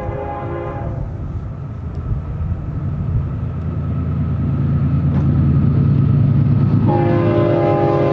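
Union Pacific GE ES44AC (C45ACCTE) diesel locomotives approaching on a double-stack train: the multi-note air horn chord ends about a second in, the diesel engine rumble grows steadily louder as the locomotives near, and the horn sounds again about seven seconds in.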